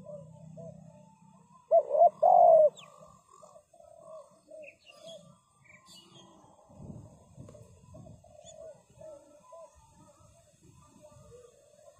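Spotted doves cooing: a run of short, soft coo notes repeated through, with a much louder close coo phrase about two seconds in. This is the call a decoy dove gives to draw wild doves down to the trap.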